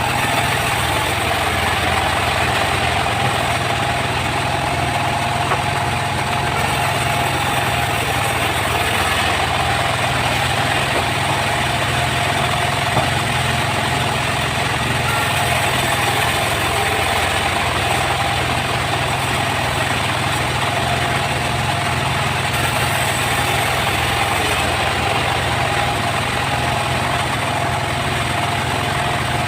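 Sawmill machinery running steadily: a constant low hum with a steady higher whine above it.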